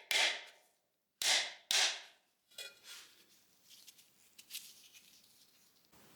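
Three short bursts of metallic hand-tool noise in the first two seconds, then a few faint ticks and clinks: a wrench working the two 10mm bolts that hold the master cylinder on a VW Beetle front beam.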